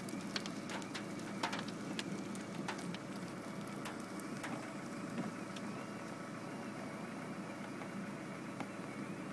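Car engine idling steadily, with scattered light taps over the first three seconds.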